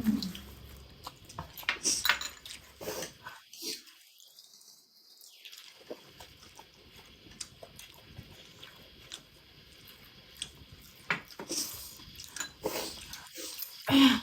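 People eating spicy instant noodles: scattered chewing and short clicks of utensils against bowls and plates, with a quiet stretch of a few seconds.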